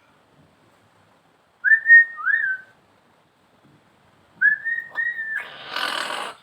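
Mentawai hill myna giving loud, clear whistles in two pairs of rising notes, followed near the end by a harsh, noisy burst about a second long.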